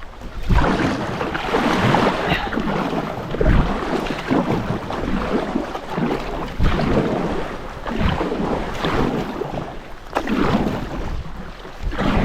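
River water rushing and splashing around a sit-on-top kayak as it runs a small rapid, with irregular splashing surges and wind buffeting the microphone.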